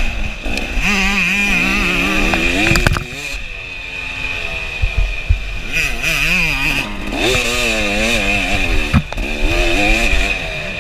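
KTM 300 two-stroke dirt bike engine being ridden hard, its pitch rising and falling again and again as the throttle is worked. It drops back briefly about three seconds in before picking up again.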